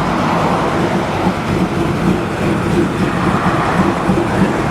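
Classic car's engine running, a steady low rumble.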